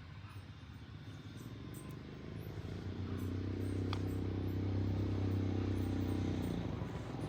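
An engine running with a low, steady hum, growing louder from about three seconds in.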